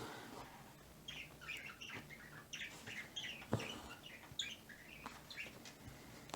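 Small birds chirping rapidly in quick bursts of short high notes, with a single sharp click about halfway through.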